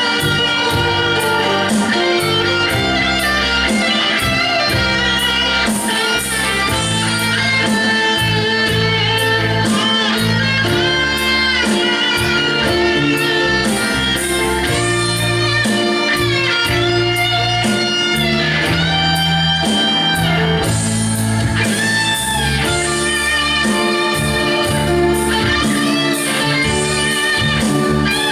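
Instrumental break of a rock ballad: a lead guitar plays long sustained notes that bend in pitch, over a steady bass line and backing.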